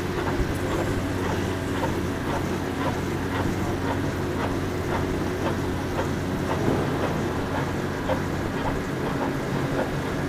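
An engine running at a steady, unchanging speed, with a light ticking about twice a second.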